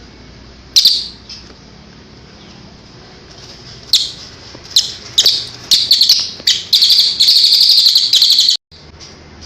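Songbird singing: a single sharp call about a second in, then short bursts of chirps from about four seconds that run into a rapid, continuous trill, cut off abruptly near the end. A faint steady hum lies underneath.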